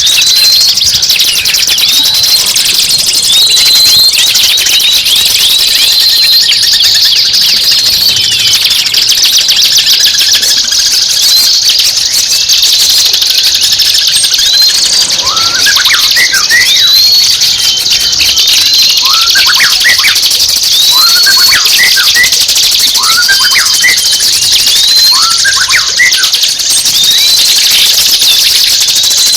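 Recorded songbird calls from a masteran bird-training track: a short upward-hooked whistle repeated about once a second over a dense, buzzy chatter. About halfway through a second bird joins with lower rising whistles in short groups.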